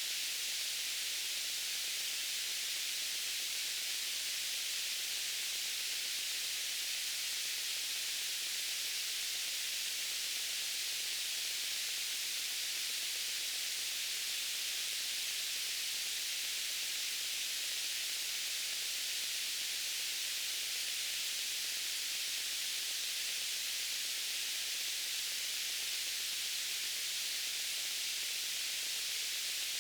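Steady white noise: an even, high-pitched hiss that does not change in level.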